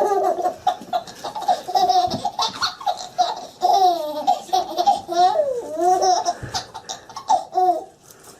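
A baby laughing in repeated high-pitched bursts.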